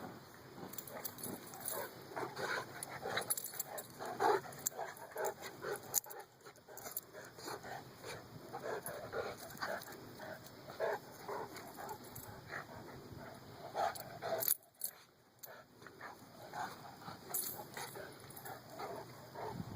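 Dogs vocalising in short, irregular bursts of barks and whines, with a brief lull about fifteen seconds in.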